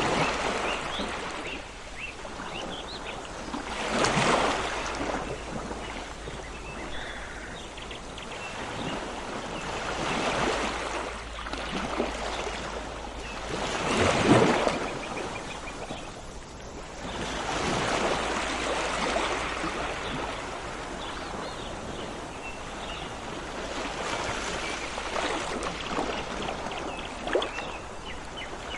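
Sea waves washing onto a shore, the surf swelling and falling away every few seconds, with the loudest wave about halfway through.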